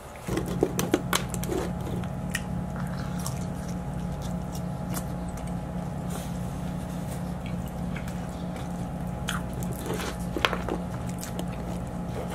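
Close-miked biting and chewing of pizza, with many short wet mouth clicks. A steady low hum starts suddenly just after the start and runs underneath.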